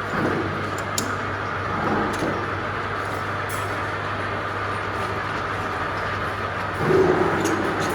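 Lathe running: a steady motor hum with an even whirring noise, a few light clicks, and a short louder burst about seven seconds in.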